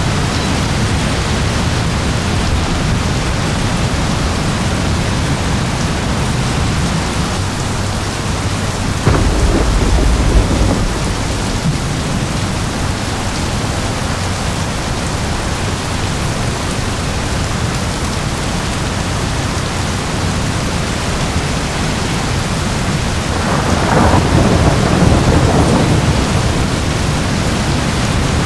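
Steady heavy rain with thunder: a deep rumble rolls in about a third of the way through, and a second, longer peal comes near the end.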